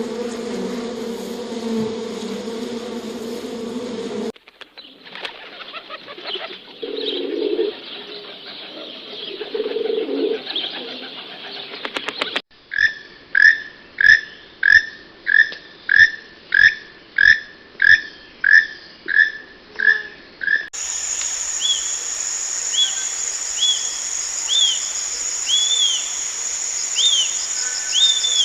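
A run of separate animal recordings. It opens with an insect-like buzz for about four seconds. From about twelve seconds a bird call repeats about twice a second, and near the end comes a bird chirping over a high, steady trill.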